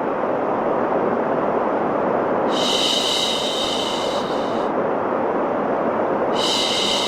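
Steady low, rushing white noise with a long "shhh" shushing laid over it, about two seconds long starting a few seconds in, and again near the end: a baby-soothing shush over a noise bed.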